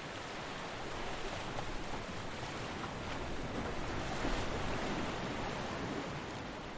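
Ocean surf washing onto a beach: a steady hiss of breaking waves that swells a little in the middle and eases off again.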